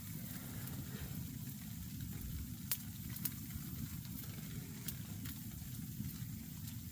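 Small wood fire burning in a stove: a steady low rumble with a few sharp crackles and pops, two close together about halfway through.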